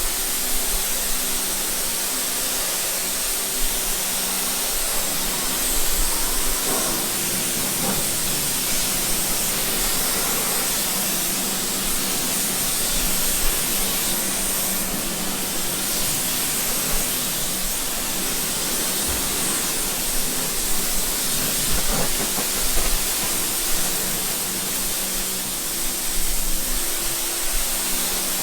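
Water spraying in a steady hiss as a bird enclosure is washed down, with a faint low hum at the start and near the end and a few light knocks.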